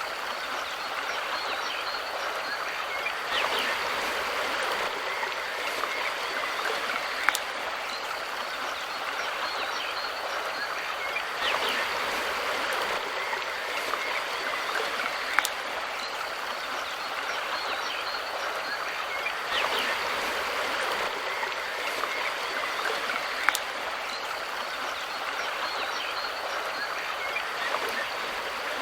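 Mountain river flowing steadily, a continuous rushing of water that swells gently every several seconds. A sharp tick cuts through about every eight seconds.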